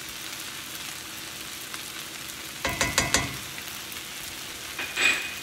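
Spaetzle and onions sizzling steadily in a skillet over a lowered burner, with a quick run of clinks and scrapes from a utensil against the pan about three seconds in and one more ringing clink near the end.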